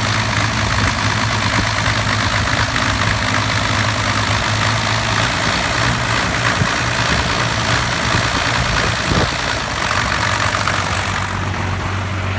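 1993 Dodge Cummins 5.9-litre 12-valve inline-six diesel idling with a steady low drone. It is the rough, stuttering idle that the owner suspects comes from the lift pump, the injection pump or the overflow restriction screw.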